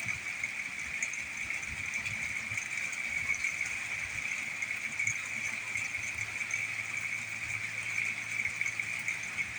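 Steady outdoor storm-night ambience: a constant high-pitched chorus of calling animals, with faint small ticks above it and no thunder heard.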